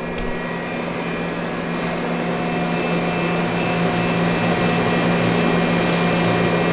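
Coolant system of a Mighty Viper V-1600 vertical machining center running just after being switched on: a steady pump hum under a rush of flowing coolant that grows slightly louder.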